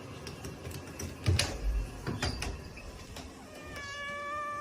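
A few sharp knocks and thumps, then a cat's long, drawn-out meow holding one pitch, starting near the end.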